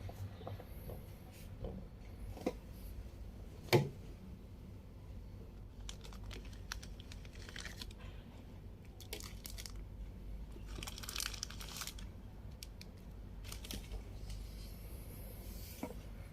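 Faint, intermittent rustling and crinkling, with a sharp knock about four seconds in.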